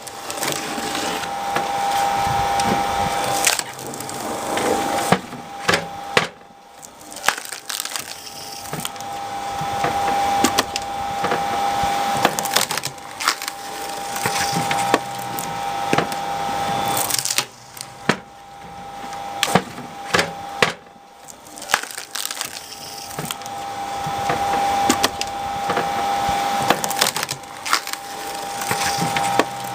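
Screw-cone log splitter driving its spinning threaded cone into a log, over a steady motor hum; the wood creaks and gives several sharp cracks as it bursts apart, twice, about a third of the way in and again about two thirds in.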